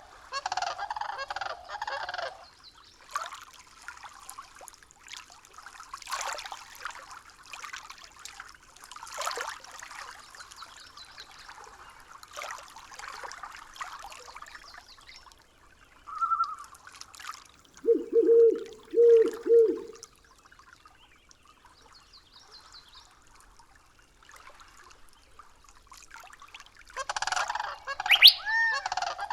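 Birds calling in a nature recording, in loud bursts with quieter stretches between them. A run of four low calls comes about two-thirds of the way through, and another burst of calls comes near the end.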